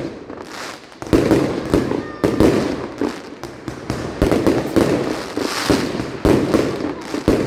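Mascletà firecracker barrage: a dense, rapid string of loud bangs and crackles, firing almost continuously after a short lull at the start.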